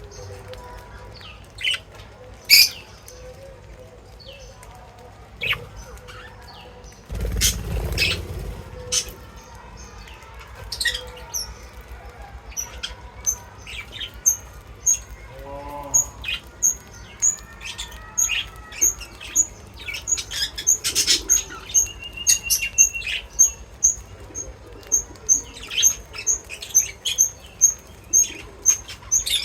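Small birds chirping at a feeder, with a low rustling burst about seven seconds in. In the second half one bird repeats a short high chirp about twice a second.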